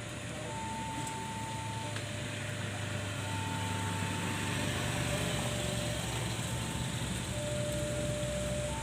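Steady low rumble of road traffic, with a faint tone that steps back and forth between a higher and a lower note, each held a little over a second.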